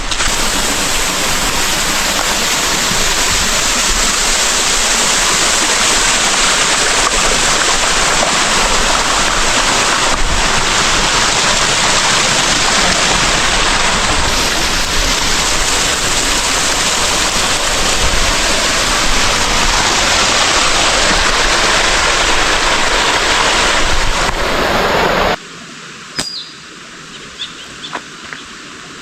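Loud, steady rushing-water noise, like a stream or waterfall close by, that cuts off abruptly near the end. In the quieter stretch after it come a couple of short, high chirps.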